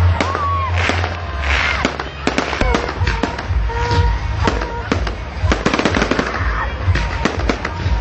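Aerial fireworks going off in quick succession: many sharp bangs and crackles, one after another, over a low rumble.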